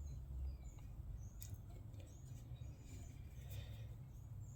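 Near-quiet room tone: a steady low rumble with a few faint light clicks and short faint high chirps.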